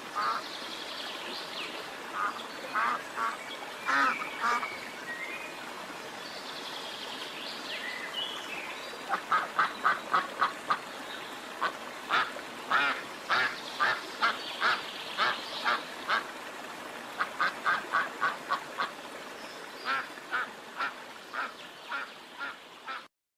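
Ducks quacking in repeated runs of short calls, about two a second, with a fast series of around eight quacks some nine seconds in. A few higher, drawn-out calls are mixed in during the first half.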